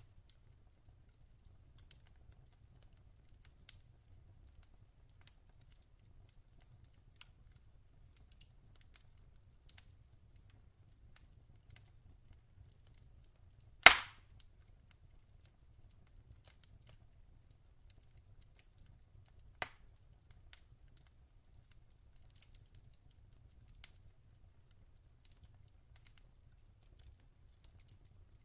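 Log fire crackling with sparse, scattered small snaps, and one loud sharp pop about halfway through, with a smaller pop later.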